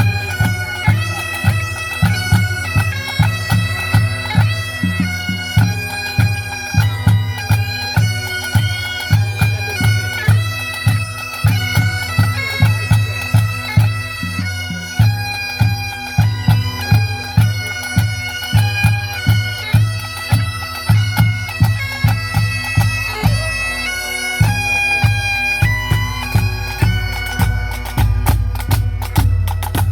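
Bagpipe music: a melody played over steady held drones, with a steady drum beat underneath.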